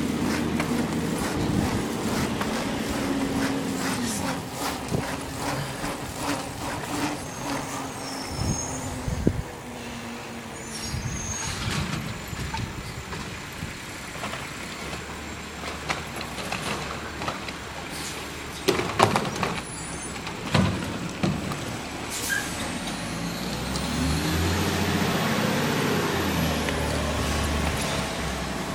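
Garbage truck engine running throughout, with a cluster of sharp clanks and bangs from the collection gear about two-thirds of the way in. A short air hiss from the air brakes follows, then the engine revs up and down near the end.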